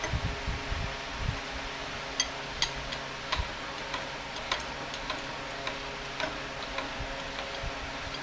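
Scattered sharp metallic clicks and light taps of tools being handled, with a few low thumps near the start, over a steady hum of shop machinery or a fan.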